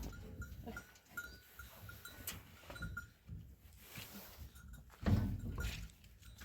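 Goats in a small hut, with a small bell clinking lightly and repeatedly over the first couple of seconds. A louder low sound comes about five seconds in.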